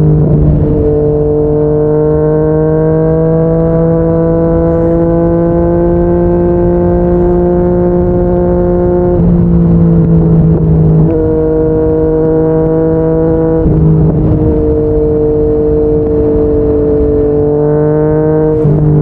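Yamaha MT-09's three-cylinder engine through a Yoshimura R55 slip-on exhaust, under way at speed. The engine note climbs slowly for about nine seconds, then steps down in pitch at each of a few gear changes.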